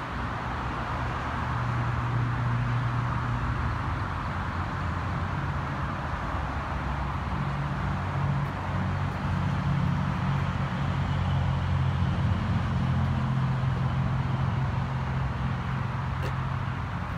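Steady low engine drone of a car idling close by, its pitch wavering slightly, over a constant hiss.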